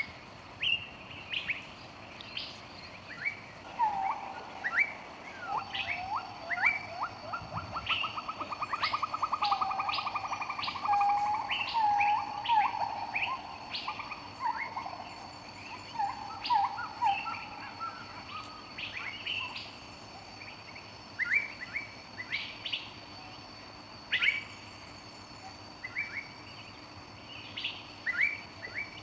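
Wild birds calling in forest: short high chirps repeat throughout. From about four to eighteen seconds a lower-pitched run of calls joins in, with a rapid trill in its middle.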